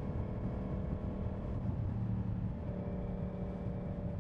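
Yamaha MT-10's crossplane inline-four engine running at a steady cruise, its note holding nearly constant, over steady road and wind noise.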